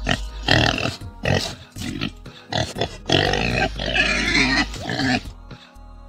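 A pig grunting in a rapid series of calls, with longer, higher calls in the middle, easing off about five seconds in.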